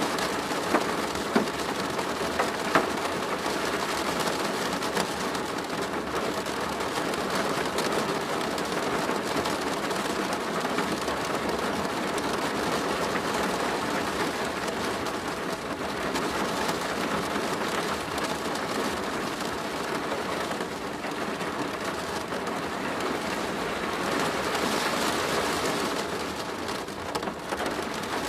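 Steady rain falling on a plastic roof, with a few sharper single drop hits in the first three seconds.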